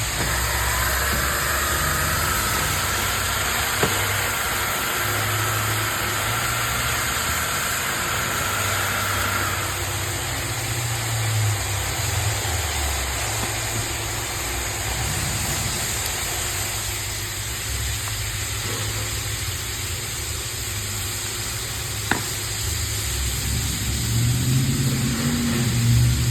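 Floor grinding machine running steadily on a terrazzo floor, with a high whine over its motor noise for the first ten seconds or so.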